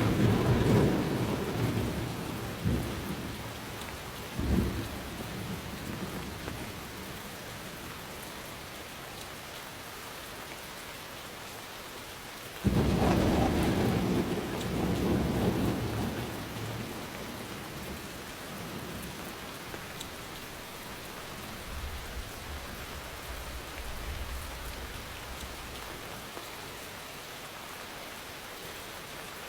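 Steady rain with thunder. A rumble fades away over the first few seconds. About a third of the way in a sudden thunderclap breaks and rolls on for several seconds before dying back under the rain, and fainter rumbles follow near the end.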